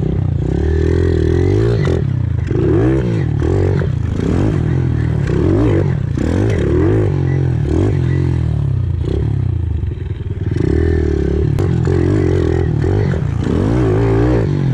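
Pit bike engines revving, the pitch rising and falling again and again as the throttle is opened and closed, with a short easing-off about two-thirds of the way through.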